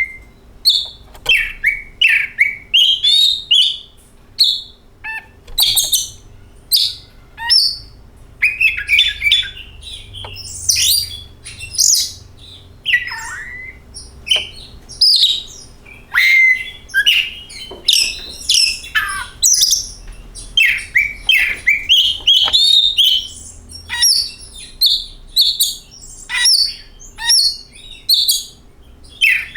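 Oriental magpie-robin (kacer) singing: an unbroken run of loud, varied whistles, chirps and quick rattling phrases with only short gaps between them.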